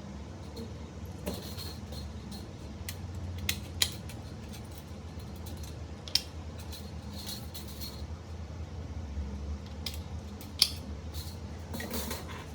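Light metallic clicks and snips from small metal parts and hand tools being handled at a workbench, a few scattered over several seconds, over a steady low hum.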